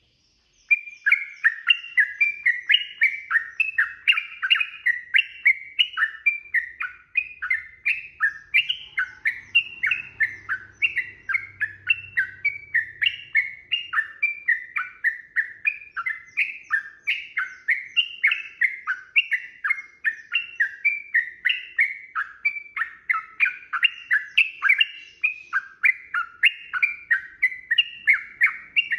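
Yellow-vented bulbul (trucukan) singing a long, unbroken string of quick, liquid, sweeping notes, about three or four a second. It is the rapid continuous 'ropel' song used as masteran audio to tutor captive birds.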